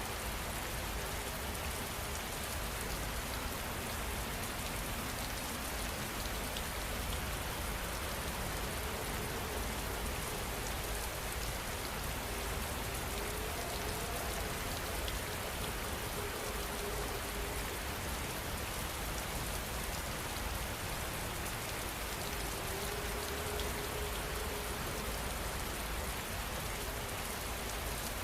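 Steady rain falling, an even hiss of drops on a surface that neither builds nor fades.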